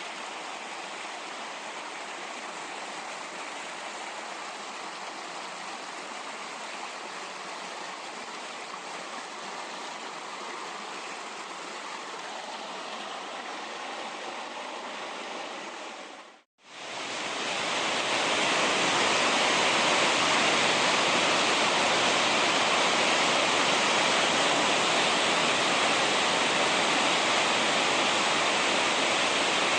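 Steady rush of a mountain stream. About halfway through it cuts out for a moment and comes back louder and fuller, a heavier rush of falling water.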